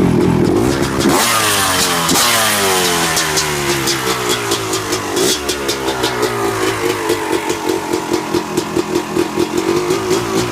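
Yamaha YZ250 single-cylinder two-stroke dirt bike engine, its top end freshly rebuilt. About a second in the revs fall away from a blip, and it settles into a slow, uneven idle with separate firing pulses, typical of an idle set too low.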